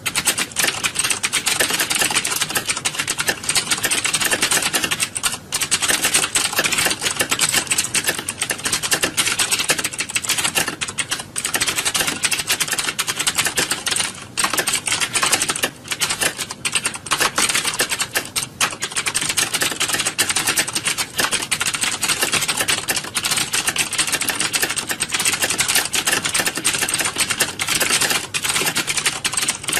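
Many computer keyboards being typed on at once, dense and continuous clicking with only brief lulls, like a typing-test exam hall.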